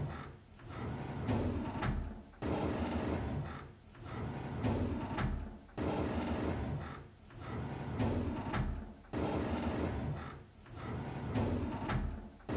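A drawer sliding open on its runners, the same sound repeating about every three and a half seconds, each time starting suddenly and swelling again before the next.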